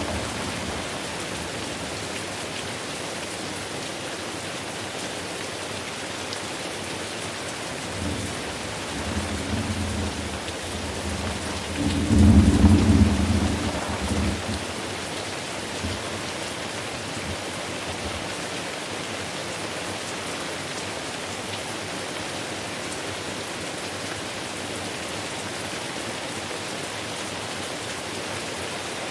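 Steady rain hissing, with rolling thunder: a low rumble builds about eight seconds in and swells to a louder peak around twelve to fourteen seconds before fading back under the rain.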